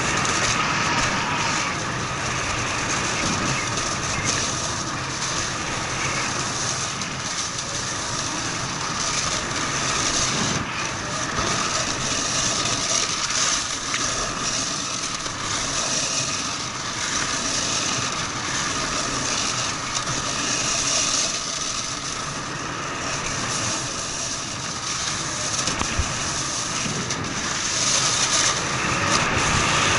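Snowboard riding over snow: a continuous rough scraping and rushing of the board on the slope.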